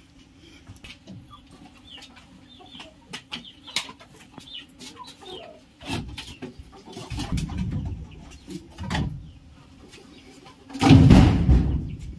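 Birds chirping and chickens clucking over a faint steady low hum. From about halfway through come loud thumps and rustles, the loudest a burst about a second before the end.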